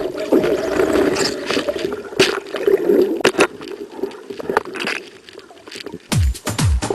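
Water gurgling and splashing, with a few sharp knocks about two and three seconds in. Near the end a thudding electronic dance beat starts.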